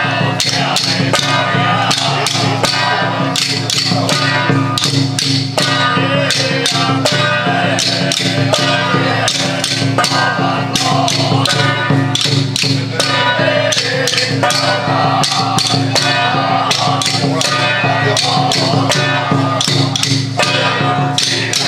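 Traditional temple ritual music: rapid, continuous percussion strikes under a pitched melody, over a steady low tone.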